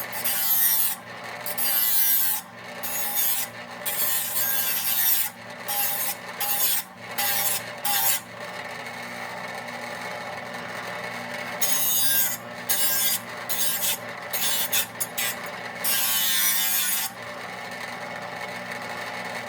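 Electric grinder running steadily while a steel mower blade's cutting edge is sharpened, in a series of loud grinding passes. Each pass brings a harsh hiss over the motor hum, with a pause of a few seconds about halfway through. Near the end only the idling motor is heard.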